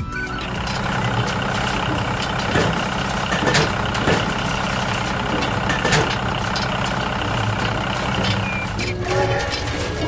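Heavy diesel vehicle engine running steadily, with a few sharp knocks or clanks. A horn-like tone starts near the end.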